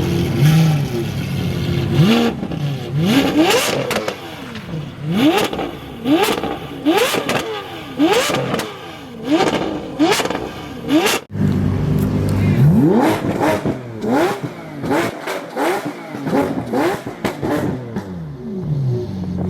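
Sports car engine revved over and over in quick throttle blips, the pitch rising and dropping each time, with sharp exhaust pops and cracks between the revs. There is a brief break about eleven seconds in before the revving starts again.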